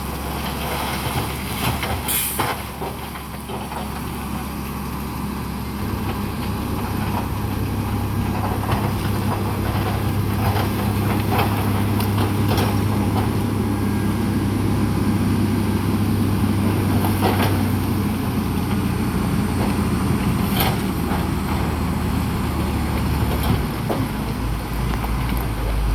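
Heavy diesel earthmoving machinery running hard, its engine speed picking up about six seconds in, with a few sharp metallic clanks.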